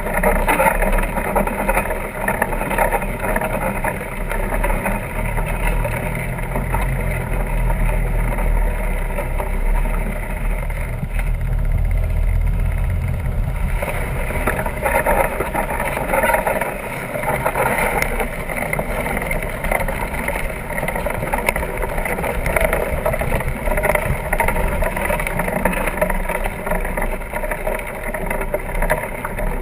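Steady wind rushing over the microphone of a camera carried on a moving fat tire bike, with a heavier low buffeting from about six to fourteen seconds in.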